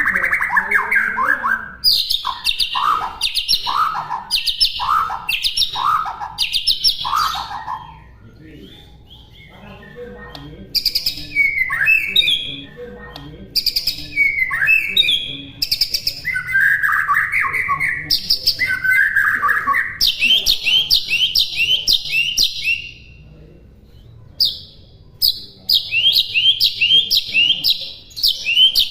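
White-rumped shama (murai batu) singing a varied tutor song. It begins with a run of repeated two-part whistles, then a quieter pause and assorted calls, and ends with fast runs of repeated chirping notes, a few a second.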